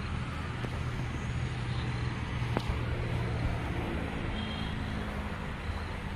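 A motor vehicle engine running steadily at idle, a low even hum, with one sharp click about two and a half seconds in.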